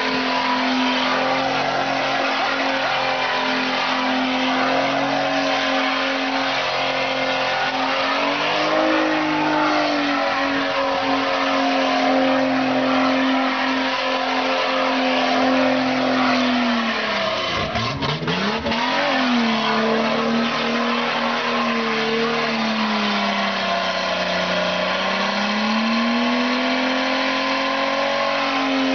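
Datsun car's engine held at high, steady revs while its rear tyres spin and skid through donuts. About two-thirds of the way through the revs drop sharply and climb straight back, and they sag once more briefly a few seconds later.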